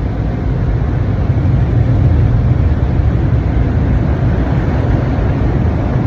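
Automatic tunnel car wash working over the car, heard from inside the cabin: a loud, steady noise heavy in the low end, with no breaks.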